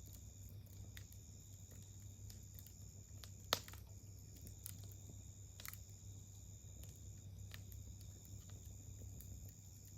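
Wood campfire crackling faintly with scattered small snaps, and one sharp loud pop about three and a half seconds in.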